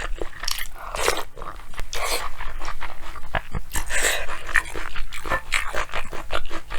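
Close-miked eating of bibimbap: repeated wet chewing and mouth smacks, with sharp clicks.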